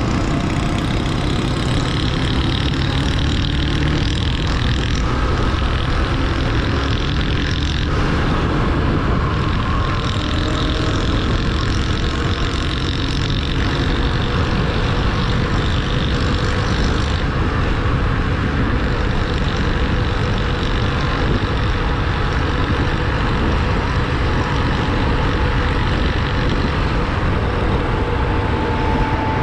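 Motorcycle on the move: a steady rush of wind and road noise with the engine running underneath.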